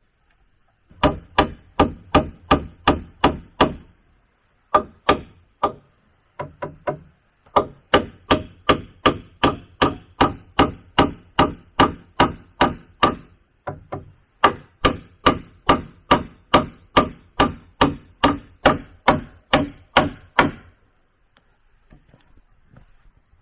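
A tool striking wood over and over, about two or three sharp blows a second, in long runs with a few short pauses; typical of chopping or hammering timber while building with wood.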